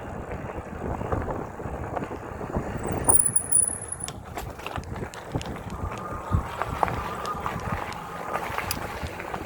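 Wind buffeting the microphone over the rushing road noise of an electric bike being ridden on wet streets, with a brief high-pitched whine about three seconds in.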